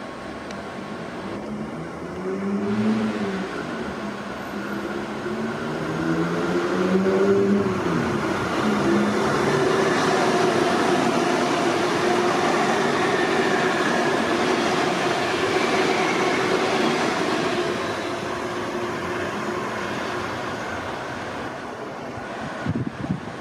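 Queensland Rail electric multiple-unit trains running past the platform. A motor whine rises and falls twice in the first eight seconds, then comes about ten seconds of the steady rumble and hiss of a train passing close by, easing off near the end. A few low thumps come just before the end.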